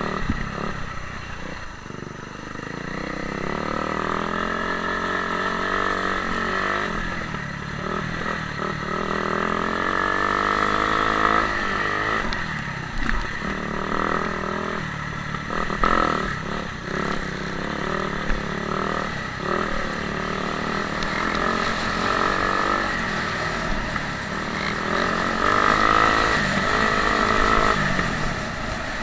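Motocross dirt bike engines revving up and easing off over and over as they ride round the track, with pitch rising and falling every few seconds.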